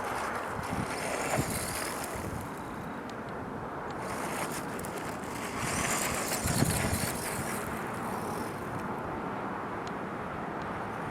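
Radio-controlled short course truck running, a noisy whirr that swells and fades as it drives, loudest a little past halfway.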